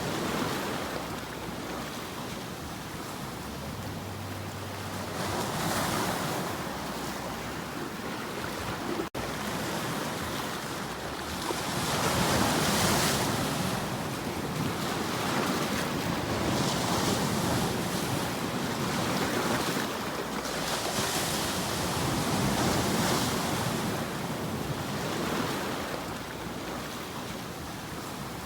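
Ocean waves washing ashore, the surf swelling and ebbing every few seconds, with a momentary dropout about nine seconds in.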